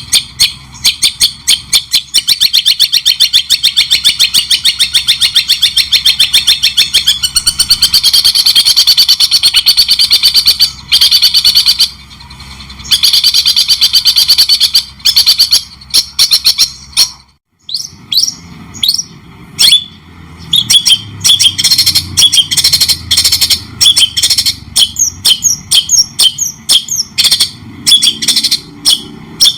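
Songbird singing a fast, unbroken string of sharp repeated chirps, several a second. After a short break about 17 seconds in, the notes turn into quick downward-sweeping whistles. A low hum runs underneath.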